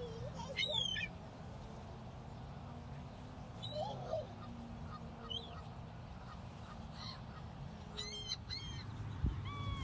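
Birds calling in short, high chirps that bend in pitch, scattered through the stretch, with a quick cluster of calls near the end.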